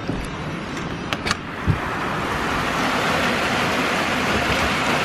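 A door latch clicks a couple of times and the door thumps open. From about two seconds in, steady rain comes in and holds as a continuous hiss.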